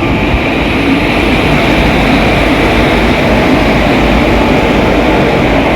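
A train running close by: a loud, steady rumble and roar that holds without a break.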